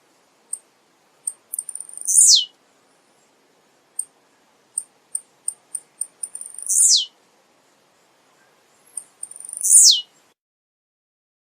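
Male blue-black grassquit (tiziu) singing. A few short, very high chips lead into a loud, quick downward-sweeping note, and the phrase comes three times, about every three to four seconds.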